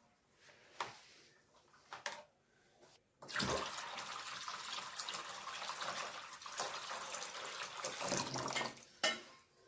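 Water running from a tap for about six seconds. Before it starts there are a couple of light knocks, and just as it stops there is a sharp click.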